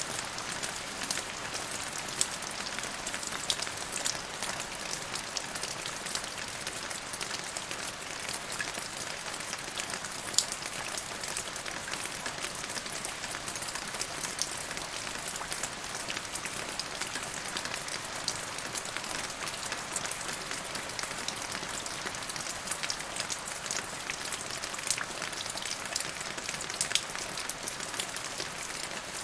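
Steady rain falling, with a constant hiss and many individual drops ticking on a surface, a few louder drops standing out now and then.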